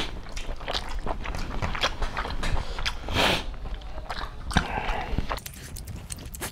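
People chewing and eating pork curry with their hands, a run of wet smacks and clicks, with a short rush of noise about three seconds in.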